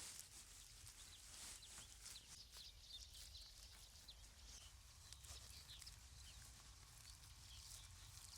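Near silence: faint outdoor ambience with a low rumble and scattered short, high chirps.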